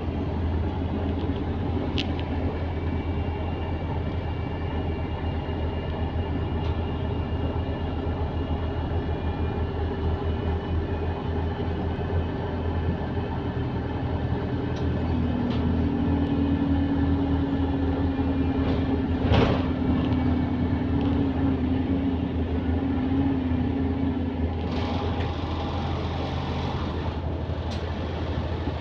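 A city bus's engine and running noise heard from inside the passenger cabin while it is moving: a steady low engine drone under road noise. About halfway through, a steady whine joins in for several seconds, and a single sharp knock or rattle sounds about two-thirds of the way through.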